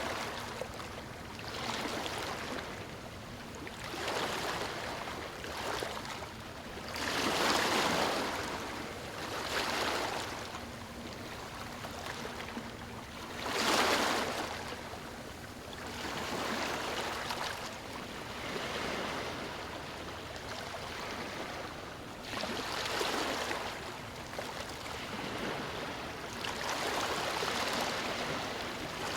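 Waves breaking on a stony shore, washing in one after another every few seconds, the biggest surges about seven and fourteen seconds in.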